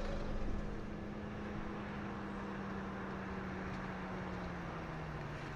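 A vehicle engine idling with a steady low hum that sags slightly in pitch near the end.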